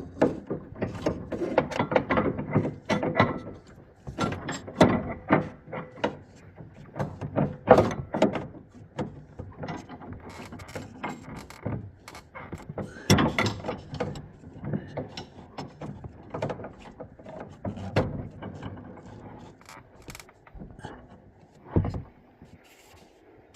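Irregular clicks, knocks and scrapes of hand work on a Vaillant boiler's plate heat exchanger as a worn O-ring is replaced and the part refitted to the hydraulic block. One sharper knock comes near the end.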